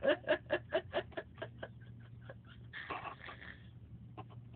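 A man's coughing fit: a rapid string of short hacking coughs, about five a second, that fade out, followed by a wheezy, rasping breath about three seconds in.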